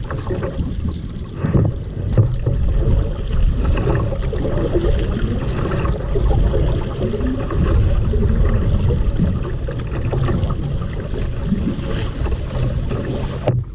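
A kayak moving across open water, with wind rumbling on the microphone over the water noise and a few knocks against the hull.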